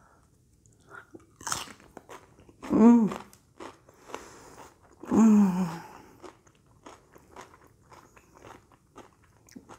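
Close-up crunchy chewing of raw cucumber: a run of crisp, wet crunches as the slices are bitten and chewed. About three and five seconds in come two short hummed vocal sounds falling in pitch, the loudest things heard.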